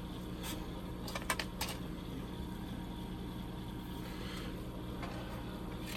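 Small clicks and taps of tools and model parts handled on a workbench, a quick cluster about a second in, over a steady low hum.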